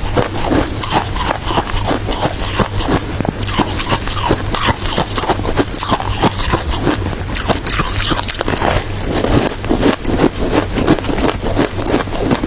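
Close-up chewing of crunchy shaved ice: a continuous run of rapid, crackling crunches, several a second.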